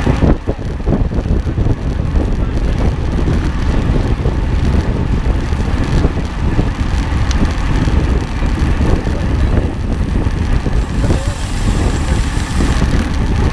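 Steady low noise of a vehicle running.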